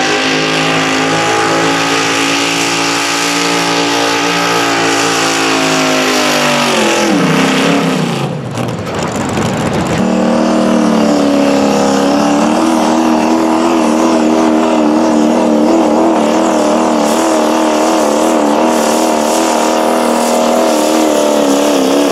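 Competition pulling vehicle's engine held at high revs under load, then winding down about seven seconds in. After a short break, a high-revving engine runs again, its pitch wavering quickly up and down.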